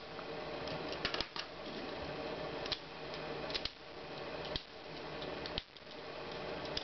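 Plastic clicks and taps from a NASCAR Bashers break-apart toy car as its pieces are handled and snapped back together: a handful of short, sharp clicks spaced irregularly over a steady room hum.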